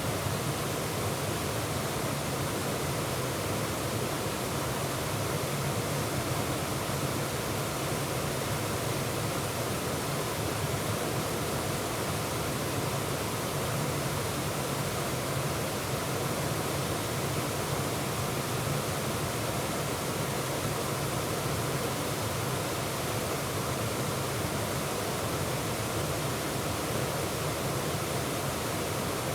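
Waterfall: water pouring over the rocks of Bear's Den Falls, an unbroken rushing roar.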